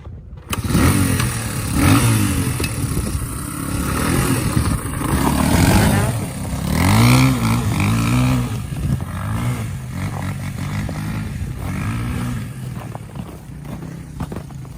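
1990 Honda XR200R's single-cylinder four-stroke engine revving up and down again and again as the dirt bike is ridden. It comes in loudly about half a second in.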